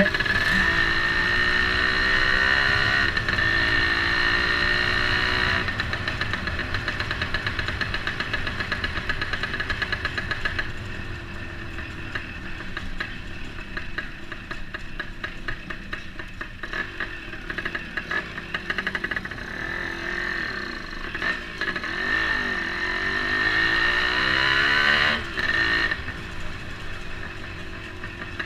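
Kawasaki HDX motorcycle engine running and being revved, revs rising and falling near the start and again past the middle, as the freshly repaired clutch is tested for slipping.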